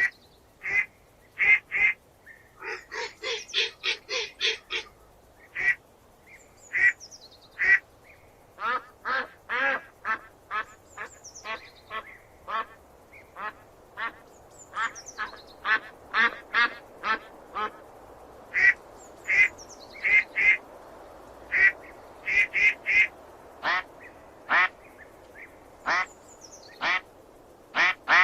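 Ducks quacking: many short quacks, some single and some in quick runs of several a second, with a few faint high falling whistles between them.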